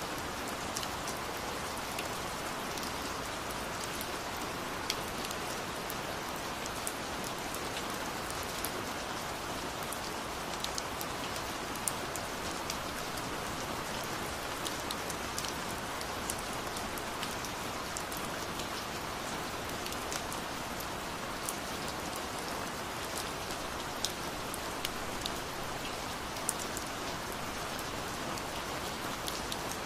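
Rain-sounds ambience of steady rain: an even hiss dotted with frequent sharp drop ticks.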